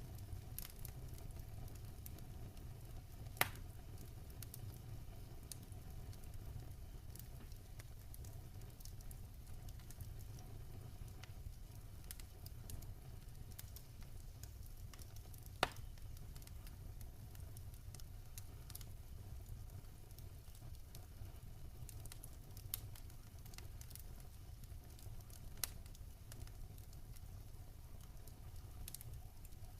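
Wood fire crackling in a fireplace, with scattered small crackles and a few sharp pops, two of them much louder, over steady rain pattering.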